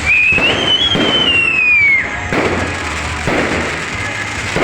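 Fireworks display: a whistling firework shrieks for about two seconds, rising then falling in pitch, among several firework bangs and bursts.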